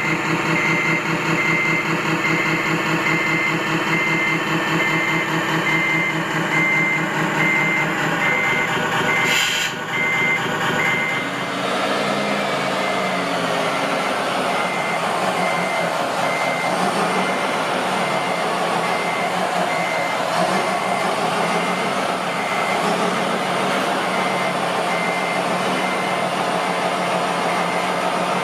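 Reversing alarm beeping evenly, over a diesel-style engine sound with a steady rhythmic chug. About nine seconds in a short click is heard, and the engine sound turns rougher and busier from then on while the beeping carries on.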